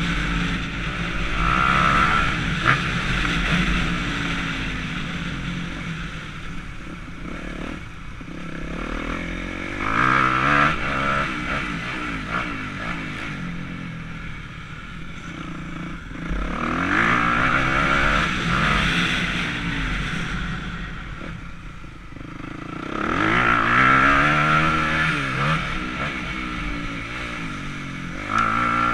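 Motocross dirt bike engine revving hard and backing off again and again, its pitch sweeping up and falling away with each surge, as it is ridden around the track.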